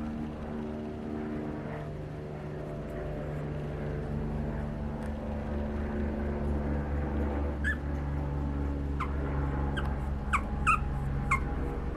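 A steady low mechanical hum, joined in the last few seconds by about six short, high-pitched puppy squeaks.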